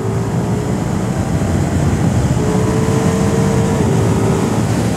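Ducati Diavel V4's 1158 cc V4 Granturismo engine pulling in sixth gear at speed, its note rising slowly and dipping near the end, under a heavy rush of wind.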